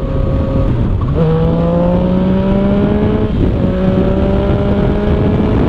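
Yamaha FZ-09's inline-three engine running through an Arrow exhaust with the dB killer removed, accelerating. The pitch drops with a shift about a second in, then climbs steadily, with a short break around the middle, over steady wind rush.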